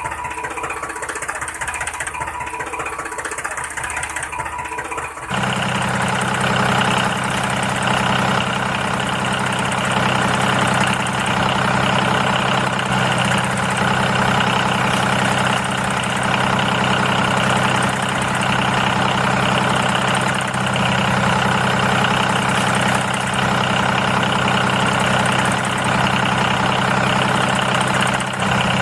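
A small motor running steadily. About five seconds in it gets louder, with a stronger, even hum.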